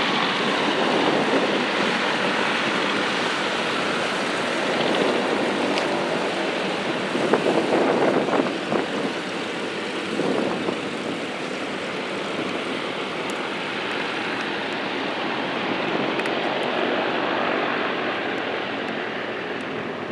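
Aircraft engine noise, a steady rushing sound that swells to its loudest about seven to nine seconds in and then slowly eases off.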